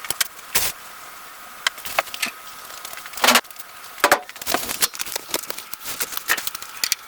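A screwdriver working at a stuck, rusted cowl screw on the truck's sheet metal: irregular metallic clicks and short scrapes as the screw refuses to turn.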